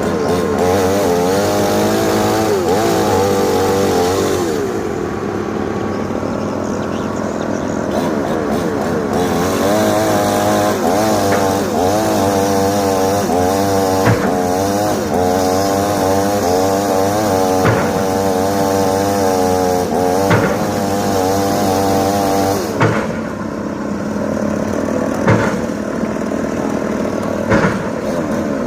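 Excavator's diesel engine running under load with its hydraulics whining, the whine wavering up and down in pitch as the machine works. Several sharp knocks in the second half.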